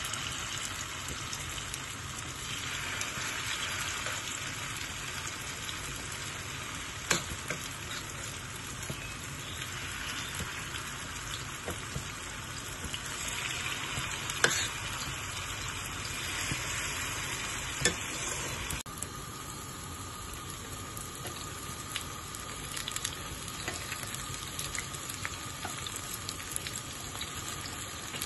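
Vegetable fritter batter sizzling in hot oil in a frying pan, the sizzle swelling each time a fresh spoonful goes in. A few sharp clicks stand out; about two-thirds through the sound drops abruptly and the frying goes on more quietly.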